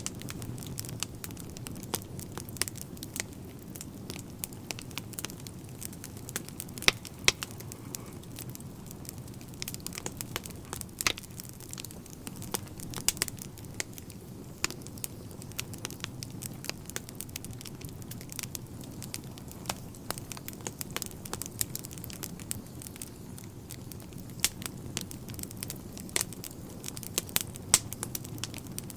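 Wood fire burning in a fireplace, crackling with irregular sharp pops and snaps over a low steady rumble, a few pops louder than the rest.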